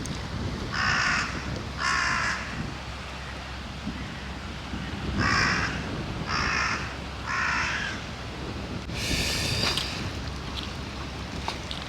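A crow cawing: two caws, then three more a few seconds later, over steady wind. A short noisy burst follows near the end.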